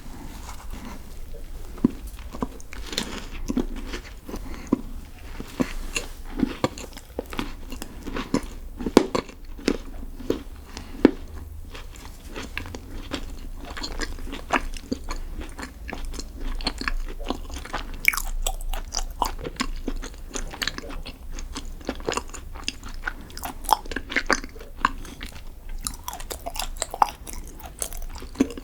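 Close-miked eating: biting and chewing a chocolate dessert, with many sharp, crisp crunches at an irregular pace.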